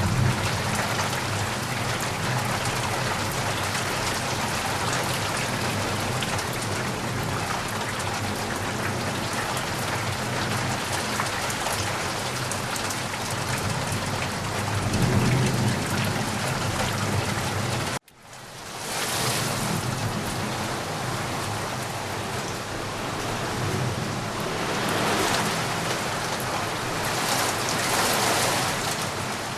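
Steady rain falling, an even hiss of drops on surfaces. A low rumble swells a little before halfway. Just past halfway the sound cuts out for an instant, then the rain fades back in.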